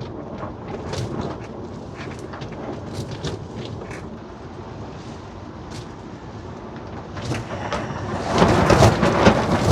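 Strong wind gusting against a polytunnel, its polythene cover flapping with many short sharp snaps over a rushing rumble. A stronger gust builds about seven and a half seconds in.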